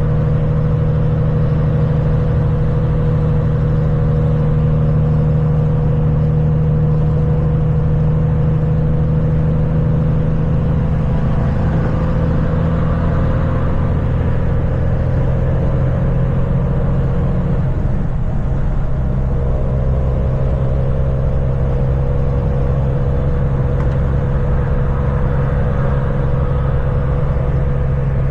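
Kenworth semi truck's diesel engine running steadily at road speed. The engine note drops and shifts briefly about eighteen seconds in, then holds steady again.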